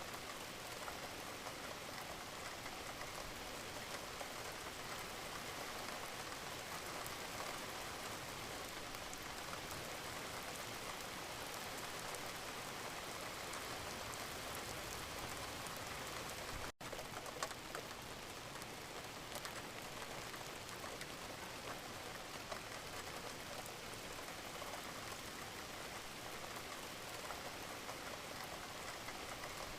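Steady gentle rain falling, an even patter of drops with no let-up. About two-thirds of the way through, the sound cuts out for an instant.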